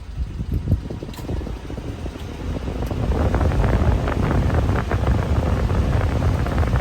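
1995 Daihatsu Hijet mini truck running: a low rumble with a rushing hiss over it that grows louder about three seconds in and holds.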